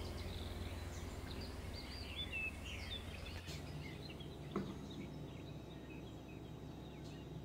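Faint birds chirping in the background, short scattered chirps over a low steady hum, with one soft click a little past halfway.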